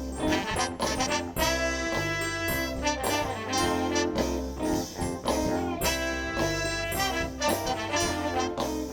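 Live soul band playing an instrumental intro: trumpet, trombone and saxophone horn section with bass, drums and keyboard.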